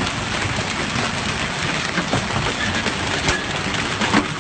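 Hailstorm: a dense, steady hiss of falling hail with many sharp individual hailstone hits, a few louder ones near the end.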